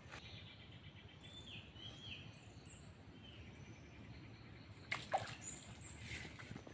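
Faint outdoor ambience with distant birds calling: a few short high chirps, each dropping in pitch, in the first half. About five seconds in comes a short knock with a little rustling.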